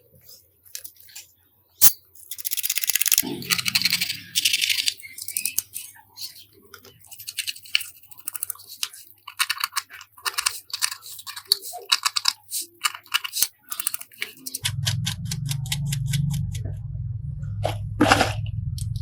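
Close handling sounds of small hard parts and tools: a sharp click, a stretch of scraping, then a run of quick clicks and taps. A low steady hum starts about three-quarters of the way in.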